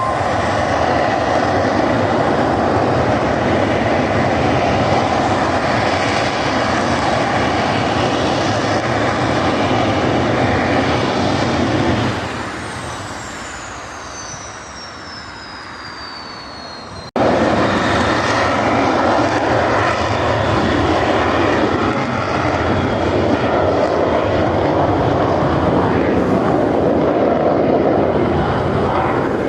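Kawasaki T-4 jet trainer's twin turbofans at take-off power, a loud steady jet noise. About twelve seconds in it fades and a high whine falls in pitch as the jet passes and draws away; then, after an abrupt cut, the loud jet noise comes back.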